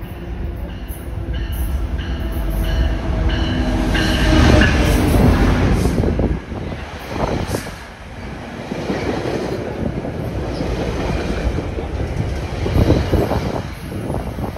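GO Transit commuter train of Bombardier BiLevel coaches pulling into the station: the diesel locomotive passes, loudest about four to six seconds in, then the coaches rumble by with wheel clatter on the rails.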